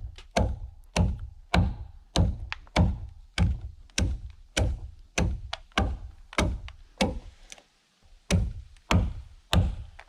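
A tool striking wood in steady repeated blows, a little under two a second, each a sharp knock with a low thump. The blows break off briefly near the end, then resume.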